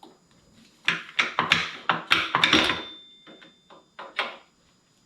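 Loose metal clutch parts from a motorcycle clutch pack clattering as they are handled and set down: a quick run of knocks and clinks, one part ringing briefly. Two more knocks follow near the end.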